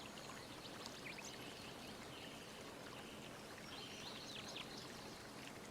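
Faint steady background hiss between spoken sentences, with a few faint high chirps a little past the middle.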